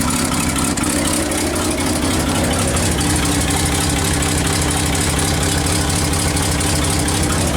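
1969 Ford F-250's carbureted V8 engine idling steadily.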